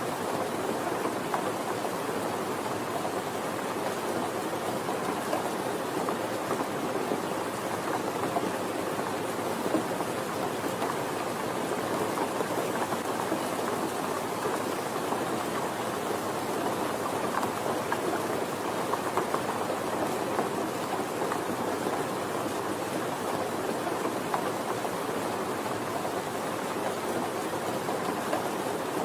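Steady, gentle rain falling, an even patter without breaks.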